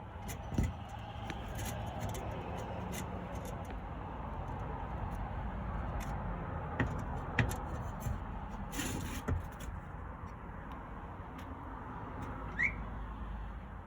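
Scattered light clicks and knocks of metal parts being handled as a pellet smoker's hopper is fitted back on, over a steady low hum. A brief rising chirp comes near the end.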